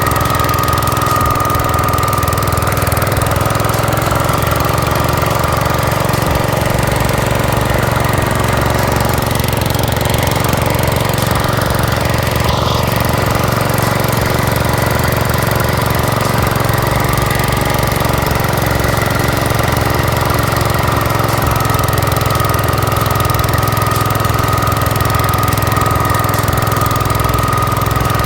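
Gravely tractor's engine running steadily, driving a snow cannon attachment to blow snow, with a steady whine above the engine note.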